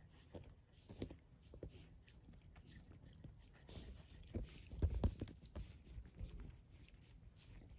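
A cat playing in a fabric cat tunnel: scattered taps, rustles and soft thumps, with a heavier thump about five seconds in.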